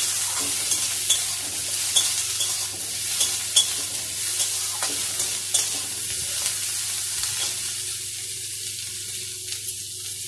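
Potato strips, onion and green chillies sizzling in hot oil in a metal kadhai, stirred with a flat spatula that scrapes and taps against the pan. The taps come often in the first half and thin out later, while the sizzle eases slightly.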